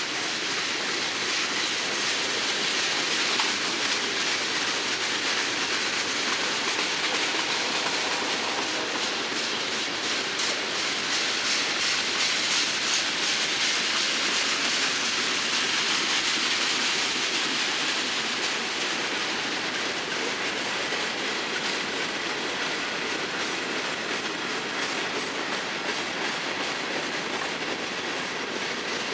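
Freight cars of a long train rolling past: a steady rumble of steel wheels on rail with a rhythmic clickety-clack as the wheels cross rail joints. The cars are tank cars followed by hopper cars.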